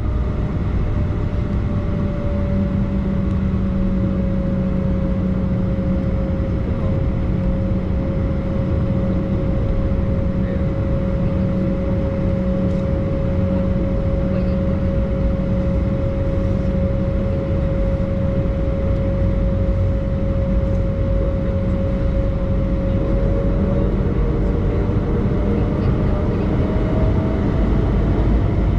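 Cabin noise inside an Embraer E190 airliner: its jet engines run with a steady whine over a loud, even rush. The whine rises in pitch near the end.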